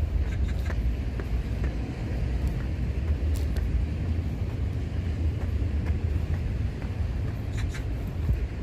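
Outdoor ambience in the rain: a steady low rumble with a few faint, scattered light ticks.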